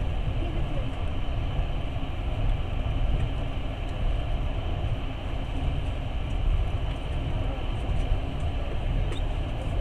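Steady running noise of a moving passenger train heard from on board: wheels rolling on the rails under the carriage, a continuous low rumble.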